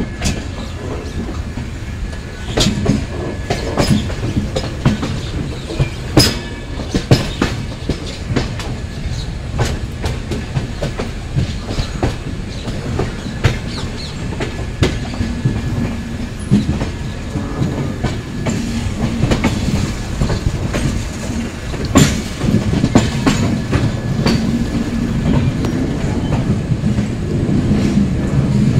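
Passenger train running on the track: a steady low rumble with irregular sharp clacks as the wheels pass over the rail joints.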